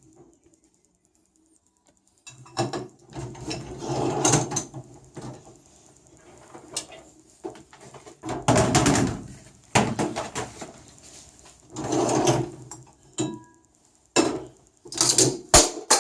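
Benchtop dishwasher being handled: four bursts of clattering and knocking, as the door, rack and dishes are moved.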